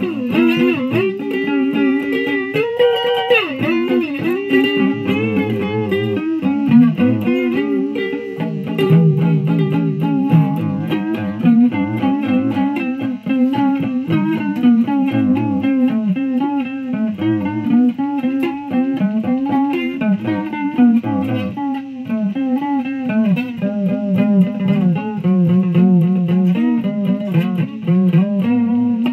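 Electric guitar played through a Fuzz Face fuzz pedal with a run-down battery, giving a ragged, horrible-sounding tone. It plays continuous single-note lines with frequent string bends.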